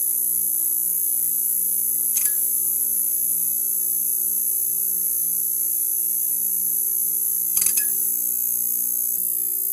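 Neon sign buzzing with a steady electrical hum and a high hiss, with a couple of faint clicks, once about two seconds in and again near the end.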